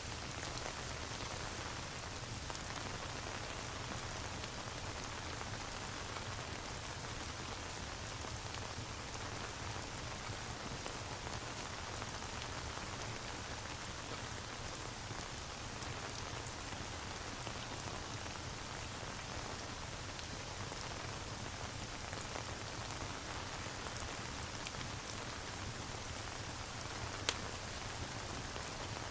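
Steady rain falling, an even hiss of drops, with a single sharp click near the end.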